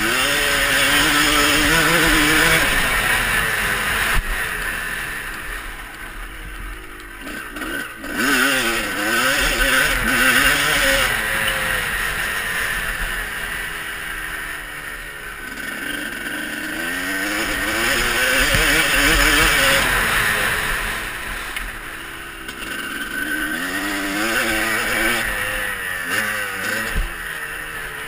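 Motocross bikes running on a dirt track, engines revving up and down as they shift and accelerate. The sound swells loud and fades away again about four times as bikes come by.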